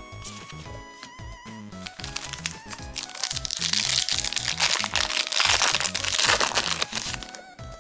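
Foil wrapper of a Yu-Gi-Oh! booster pack crinkling and tearing open, starting about three seconds in and lasting about four seconds, over background music.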